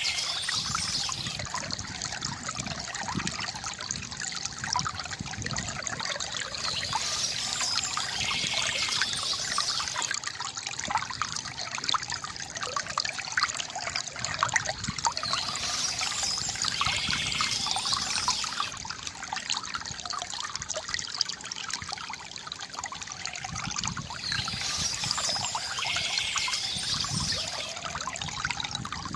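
Water trickling and gurgling steadily from a bamboo fountain spout, with short bursts of bird chirping that come back about every eight or nine seconds.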